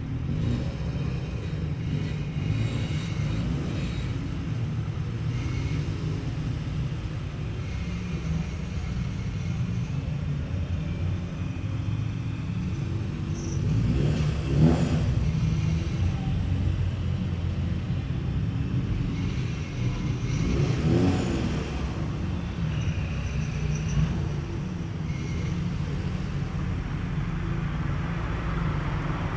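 Car engines running with a steady low exhaust rumble. Twice, about halfway and about two-thirds through, a car drives past close by, its engine pitch rising and then falling.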